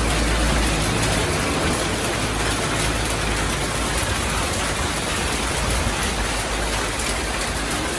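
Heavy rain falling in a steady, dense hiss, with a low rumble on the microphone.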